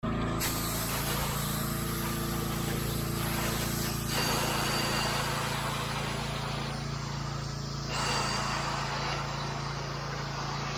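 Gas pressure washer engine running steadily, with the hiss of its water jet spraying into a gutter. The spray grows louder about four seconds in and again about eight seconds in.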